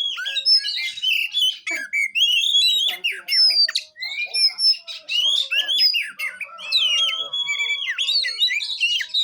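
Oriental magpie-robin (kacer) singing a fast, varied, unbroken string of sharp whistled notes that jump and slide up and down in pitch.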